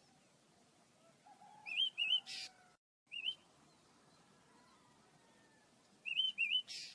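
Small pet birds chirping: two clusters of quick, wavy chirps, each ending in a short harsher note, about two seconds in and again near the end.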